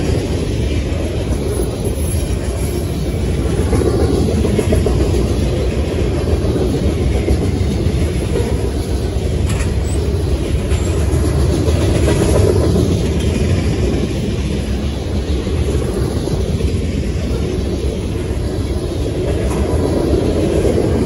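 Freight cars of a passing manifest train, flatcars loaded with wrapped lumber and then boxcars, rolling by close at hand: a steady rumble of steel wheels on the rails that swells and eases slightly as the cars go past.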